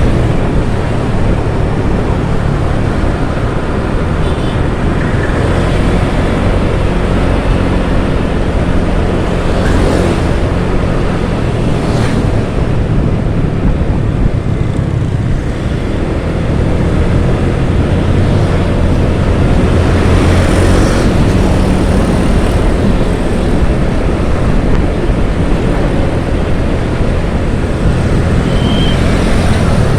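Steady wind rush and rumble on the microphone with motorcycle engine and road noise while riding.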